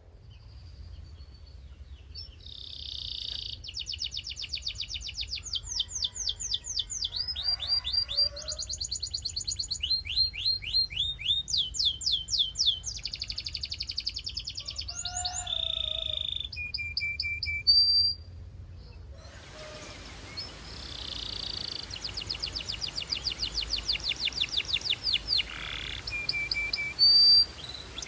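Belgian canary singing: long trills of rapidly repeated high notes broken by a few held whistled tones. The song pauses briefly about two thirds of the way through, then resumes over a louder background hiss.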